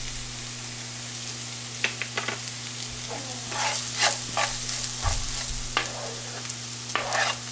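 Chopped onion, ginger, garlic and green chilies with spices sizzling in hot oil in a frying pan. A spatula stirs and scrapes them in a series of strokes from about two seconds in.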